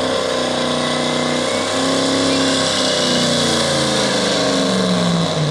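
Modified 2001 GMC Duramax V8 turbo-diesel pickup running hard at high revs, pulling the sled on a truck-pull track. Its pitch wavers and then drops near the end as the engine backs off.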